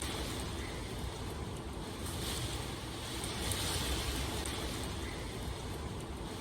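Steady rain, an even rushing hiss with a low rumble underneath, swelling slightly every couple of seconds.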